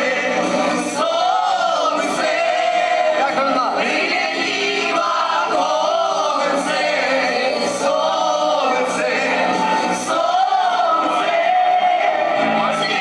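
Voices singing a song together over an instrumental backing with a steady beat.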